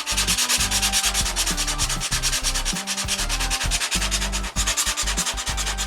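Sandpaper rubbing back and forth over the wooden model airplane in quick, even strokes, several a second.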